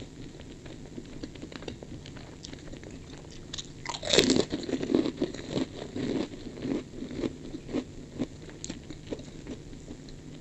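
Kerupuk (Indonesian fried cracker) bitten with a loud crunch about four seconds in, then chewed with crunching close to the microphone for a few seconds. Softer mouth clicks come before and after.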